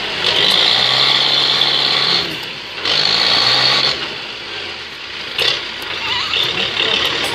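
Tractor engine running hard in three surges, each bringing a harsh high-pitched noise that drops away between them.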